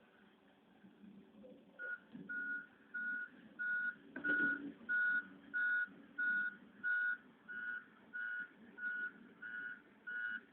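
Back-up alarm of a Caterpillar 140H motor grader beeping as it reverses, a single steady tone at about one and a half beeps a second, starting about two seconds in, over the low running of the engine. A short knock sounds about four seconds in.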